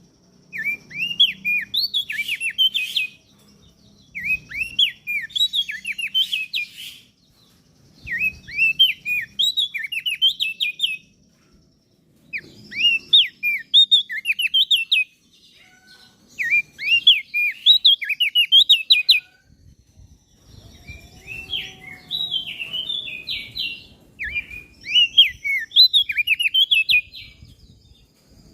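Crested darkeye (opior jambul) singing: bursts of quick, sharp chirping notes, each burst lasting about three seconds and repeated about seven times with short pauses between.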